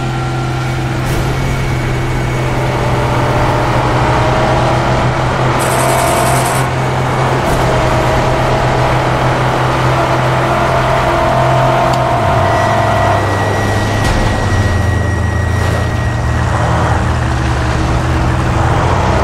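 Motor vehicle engines running steadily at speed, a continuous drone whose pitch drops about twelve seconds in, with a brief hiss about six seconds in.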